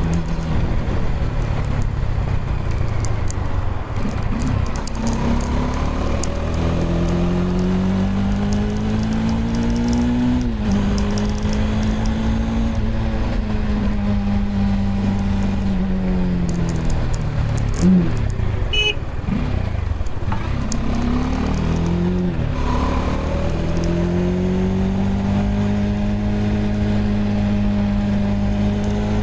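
Bajaj Dominar 400's single-cylinder engine and exhaust under way: the pitch climbs as the bike accelerates, drops sharply at each upshift, falls away as it slows, then climbs again. A brief high beep sounds about two-thirds through.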